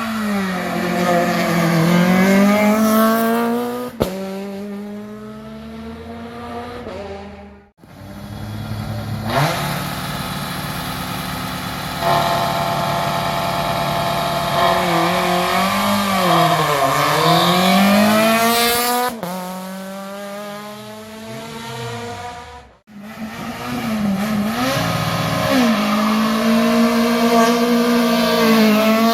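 Rally car engines at racing revs, the pitch climbing and dropping through gear changes and lifts, with the occasional sharp crack. The sound comes in three passages, divided by abrupt cuts about eight seconds in and again about twenty-three seconds in.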